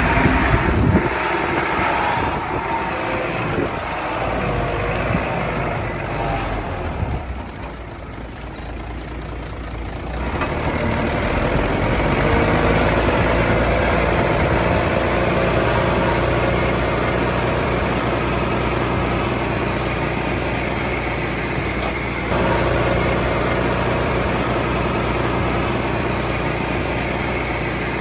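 Heavy diesel earthmoving machinery working. The engine revs up about ten seconds in, then runs steadily and grows louder again a little past twenty seconds.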